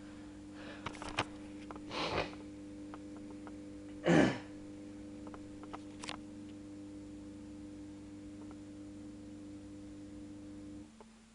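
Bosch Exxcel dishwasher running just after the start of its cycle, a steady pump hum that cuts out near the end and leaves a quieter, lower hum. A few light clicks and two brief louder noises come about two and four seconds in, the second the loudest.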